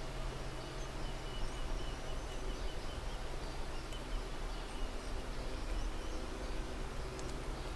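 Outdoor ambience: a steady low hum under a noisy background, with a faint high thin trill for a couple of seconds in the middle.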